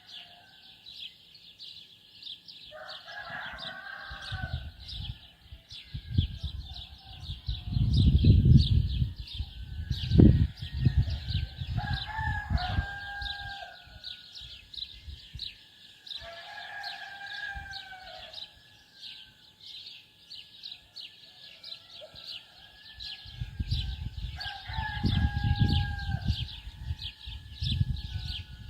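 A rooster crowing four times, each crow about a second and a half long, over a constant high, rapid chirring. Low rumbling noise comes and goes on the microphone.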